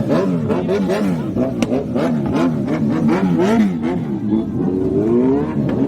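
Several motorcycle engines revving in quick throttle blips, their pitches rising and falling over one another without a break.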